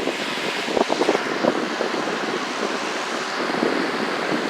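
Lasko 3733 box fan running on high speed: a steady rush of moving air, with gusty buffeting of the air blast on the microphone in the first second or so.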